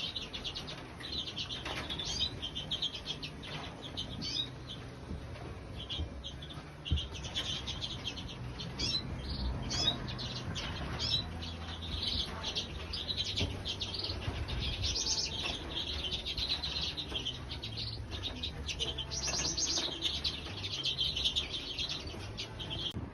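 Many small cage birds chirping and singing together in a bird room, a dense chatter of short calls and fast trilled phrases, over a low steady hum.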